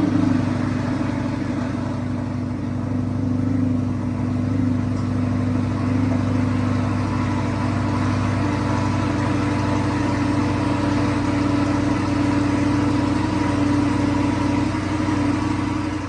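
1969 Chevrolet Biscayne's engine idling steadily.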